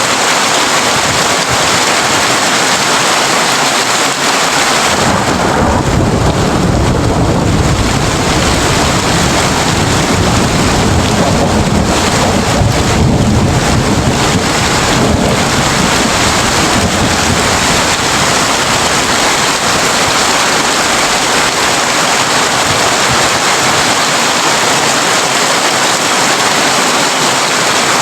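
Heavy rain falling on a tin roof, a dense steady hiss. About five seconds in, a long low rumble of thunder comes in and rolls on for about ten seconds before fading.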